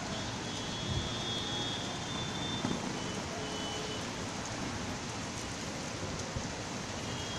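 Steady rain falling, an even hiss throughout, with faint thin high tones in the first half and a soft low thump about a second in.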